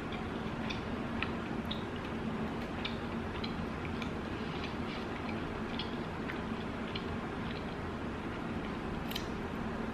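Someone chewing a boiled shrimp: small, irregular mouth clicks over a steady low room hum.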